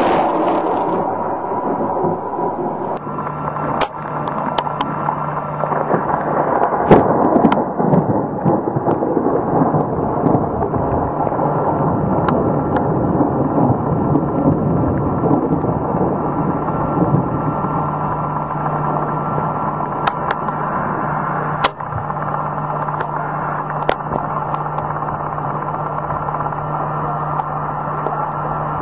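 Storm noise, heavy rain and wind rushing, with scattered sharp cracks and a steady low hum through parts of it.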